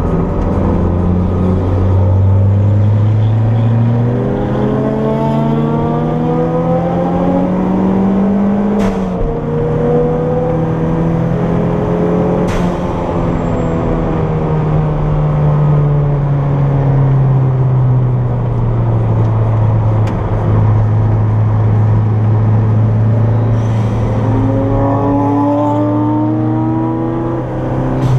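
Turbocharged Toyota MR2 engine heard from inside the car on track, its pitch climbing steadily under acceleration, dropping sharply at a gear change about nine seconds in, easing off and holding, then climbing again near the end.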